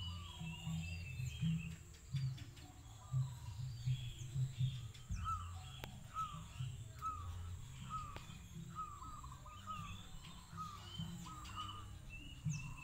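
Wild birds calling. One bird repeats a short rising-and-falling call note about twice a second through most of the stretch, with higher chirps from other birds over a low, uneven rumble.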